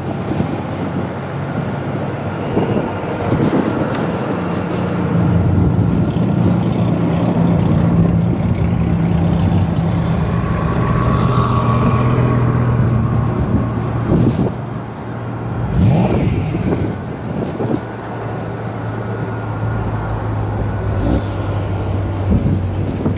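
Several cars driving slowly past one after another, their engines running at low revs, with brief louder sweeps as individual cars go by.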